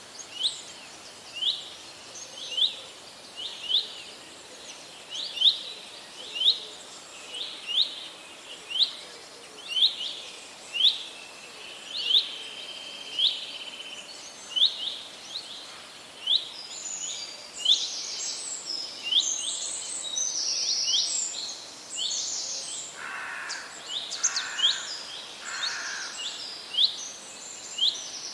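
Forest birds singing: one bird repeats short, high, rising chirps about twice a second. About halfway through, other birds join with busier, higher calls, and three lower notes come near the end.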